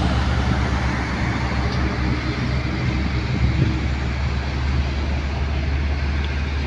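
Heavy truck engine running steadily on the road, a low even hum under tyre and road noise.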